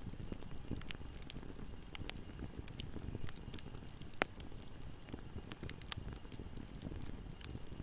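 Wood fire burning with a steady low rumble and scattered crackles, with two sharper pops about four and six seconds in.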